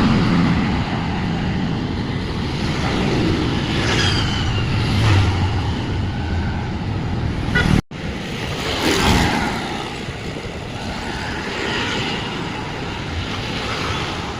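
Steady city road traffic: the engines and tyres of passing cars and motor vehicles, with one vehicle swelling past about nine seconds in. The sound drops out for a split second near the middle.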